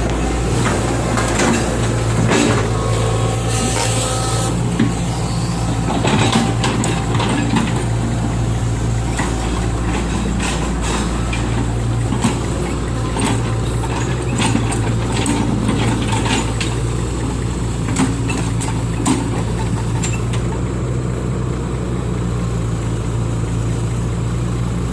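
Lift truck engine running steadily, with repeated knocks and clattering over it, most of them in the first twenty seconds.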